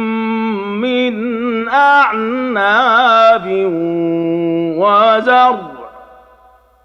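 A man reciting the Quran in melodic Hijazi style, drawing the words "min a'nab" out into long, ornamented held notes. His voice trails off near the end into a pause between phrases.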